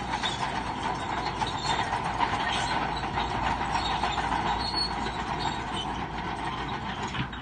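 Crawler bulldozer working, its diesel engine running under steady squealing and clanking from its steel tracks.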